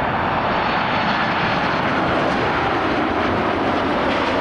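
Jet airliner engines, a loud steady noise without breaks.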